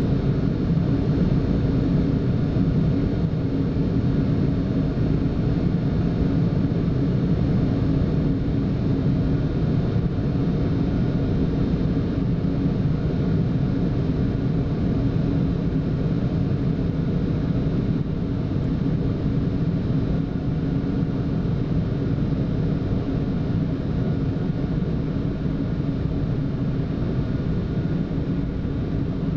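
Steady flight-deck noise of a Boeing 747-8 climbing after takeoff: an even rumble of airflow and engines, with a few faint constant hums above it.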